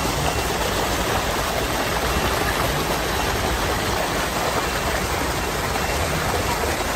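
Steady rush of water from a torrential downpour flooding a street, an even hiss with no breaks.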